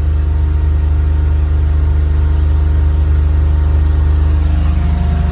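Car engine with Bosch CIS (continuous injection) running steadily on its own during warm-up from a cold start, with no throttle applied.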